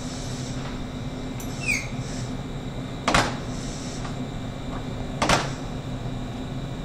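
Steady electrical hum of a standing electric train, with two sharp clunks about two seconds apart and a brief falling squeal before them.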